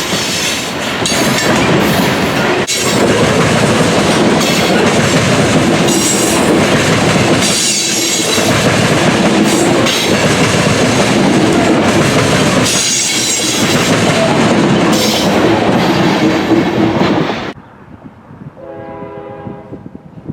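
Freight train passing close by, its cars' wheels clattering rhythmically over the rail joints. The noise cuts off abruptly about three-quarters of the way through as the last car passes, and a fainter pitched tone with several notes follows near the end.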